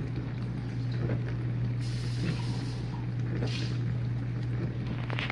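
Whirlpool dishwasher running with a steady low hum.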